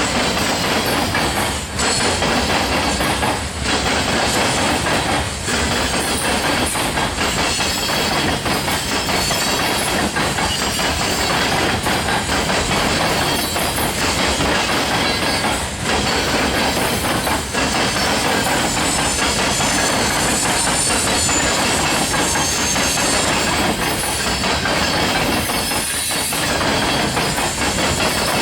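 Freight train of rock cars rolling past, a loud, steady rumble and clatter of steel wheels on rail with a few brief lulls.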